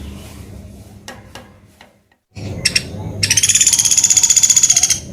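Pelatuk beras bird calling: a few short high notes, then a fast, evenly pulsed high trill starting about three seconds in and lasting nearly two seconds.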